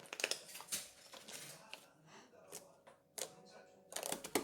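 Irregular light clicks and taps, with a quicker cluster of clicks near the end.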